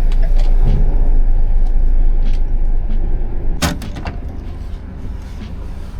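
Steady low rumble of a U-Haul box truck heard from inside the cab while it is driven. A single sharp knock comes about three and a half seconds in, and the rumble is quieter after it.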